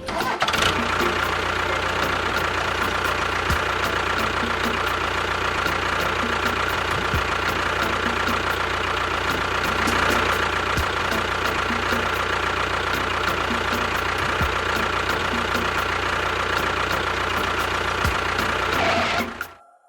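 A small motor running steadily with a constant whine and low hum, cutting off suddenly near the end.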